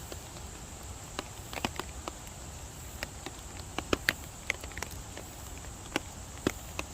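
Rain falling in a mountain valley: a steady hiss with irregular sharp taps of large drops striking nearby surfaces, some louder than others.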